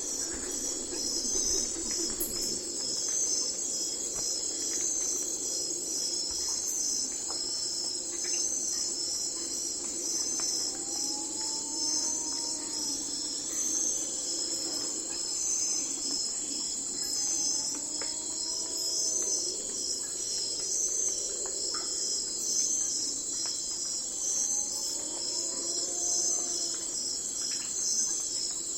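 Night-time forest insect chorus: crickets trilling steadily in a dense, fast-pulsing high-pitched chorus over a lower continuous drone. Three times, about every six seconds, a short pair of rising-then-falling calls sounds over the chorus.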